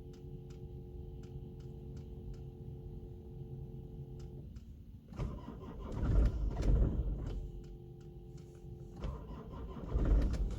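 A car engine cranking on the starter twice, about two seconds each time, without catching: a crank-no-start. A steady electrical hum runs between the attempts and drops out while the starter turns.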